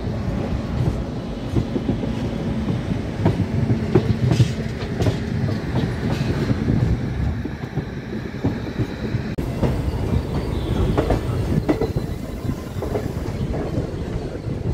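Express train's coaches rolling along the track, heard from an open coach door: a steady rumble with the wheels clattering over rail joints and points.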